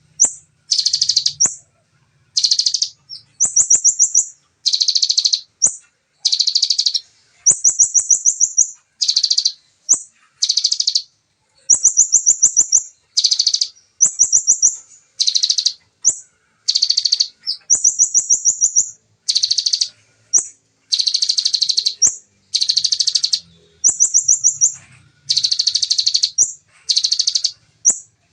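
Bar-winged prinia (ciblek) singing its fast 'shooting' song: short, high-pitched bursts of rapid-fire notes, one about every second and a half, some of them thin high trills.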